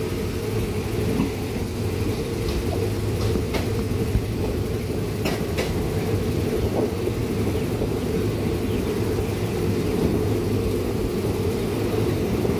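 Diesel-hauled passenger train running along the track, heard from an open carriage window: a steady low rumble of wheels and running gear, with a few short sharp clicks.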